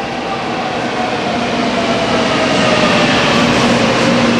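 Shinkansen bullet train moving along the platform: a steady rush of wheel and rail noise that slowly grows louder, with electric motor whines sliding down in pitch.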